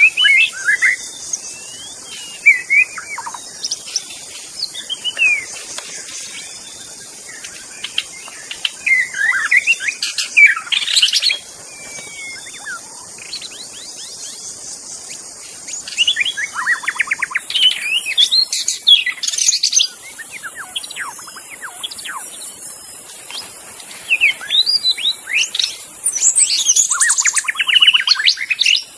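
White-rumped shama (murai batu) singing: bursts of varied loud whistled phrases and quick rattling trills, separated by short pauses, over a steady high hiss.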